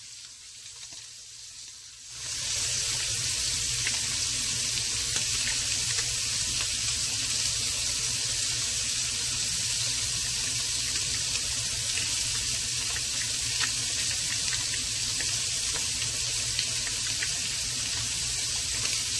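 Seasoned tilapia fillets sizzling in hot oil in a frying pan: a steady sizzle with small crackles that starts suddenly about two seconds in.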